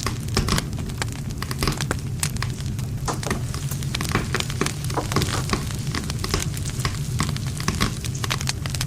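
Wood campfire burning: dense, irregular crackling and popping of burning wood over a steady low rumble of the flames, with a brief rise in hiss about five seconds in.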